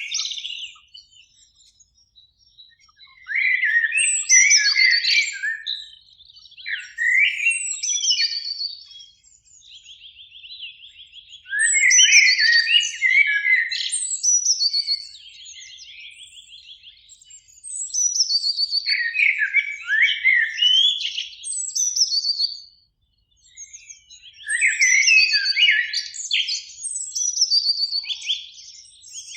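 Eurasian blackbird singing: about six warbled, whistled song phrases a few seconds apart, separated by short pauses.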